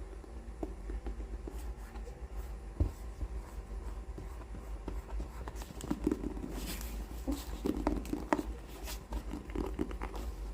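Hands handling books at close range: scattered light taps on the covers, then from about six seconds in a run of rubbing and rustling with a few sharper taps, as from stroking a cover or turning pages.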